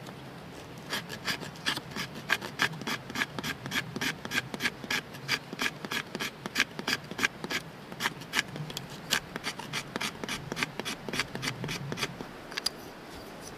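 Rapid, rhythmic strokes of a tool working on wood, about three a second, starting about a second in and stopping shortly before the end.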